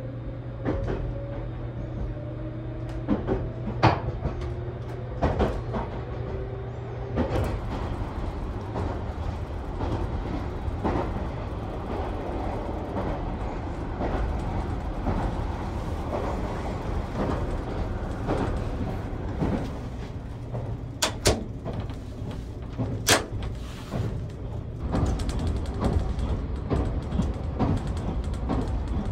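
Running noise of a JR Kyushu 787 series electric express train heard inside a compartment: a steady low rumble, with two faint rising tones in the first few seconds as the train gathers speed. Scattered sharp clicks and knocks sound throughout, some of them from the compartment's hinged door being opened and handled.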